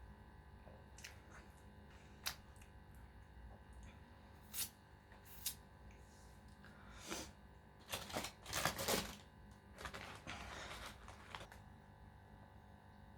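Close-up eating sounds: a few sharp mouth clicks and crunches spread out, a cluster of louder crunching about two-thirds of the way in, then a short stretch of rustling.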